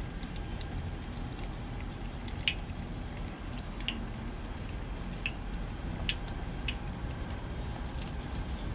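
Battered Oreos frying in hot oil: scattered sharp pops and crackles about once a second over a low steady rumble.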